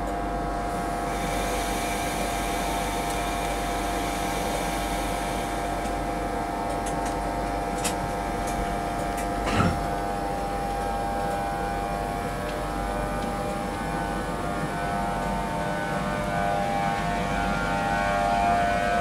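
Virgin Trains East Coast express train moving slowly past, a steady hum with several held tones over a low rumble. Two short knocks come about eight and ten seconds in, and the sound grows a little louder near the end.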